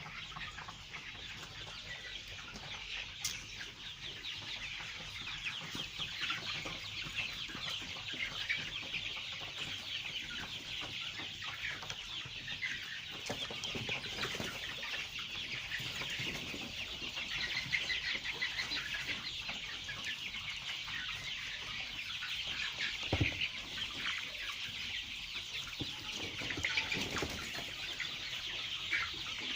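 A large flock of chickens clucking and chirping continuously, many birds calling over one another. A single dull thump sounds about two-thirds of the way through.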